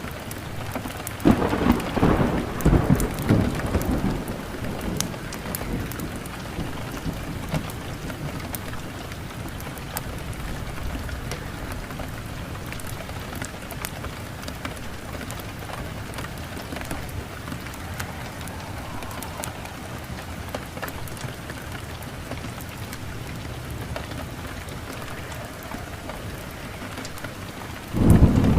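Steady rain with thunder rumbling loudly from about a second in, and again near the end, over fine crackling from a fireplace fire.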